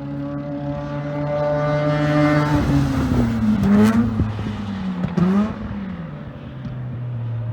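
Mazda Renesis rotary engine in the race-prepared RX7 running hard on track. About three seconds in, its note drops and swings back up twice, as with downshifts under braking, and there are sharp cracks among the swings. The engine then settles into a steady lower note.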